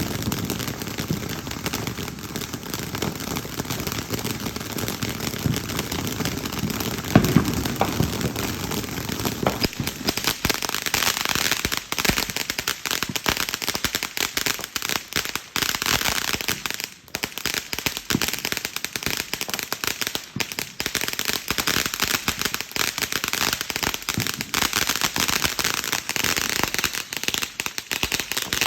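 Consumer aerial firework cake going off: a steady stream of dense crackling pops, with a louder bang about seven seconds in and thicker crackling from about ten seconds on.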